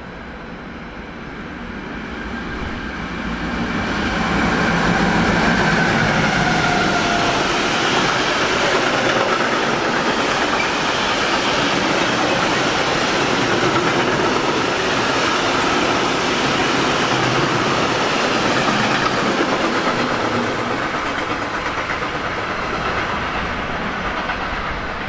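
A train passing. Its sound builds over the first few seconds, holds loud for about fifteen seconds, then fades. A whine runs through it, slowly falling in pitch.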